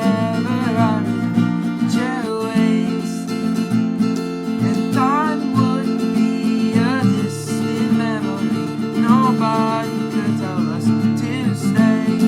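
Acoustic guitar strummed steadily, capoed at the fifth fret, with a melody sliding in pitch above the chords.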